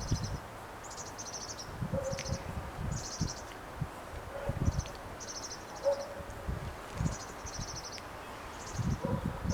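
Small birds chirping in short, high, buzzy phrases that repeat irregularly, over low rumbling gusts of wind on the microphone.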